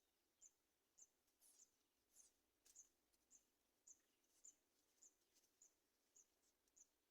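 Faint, short, high-pitched cheeps from nestling birds, evenly repeated about twice a second, with a few soft rustling clicks between them.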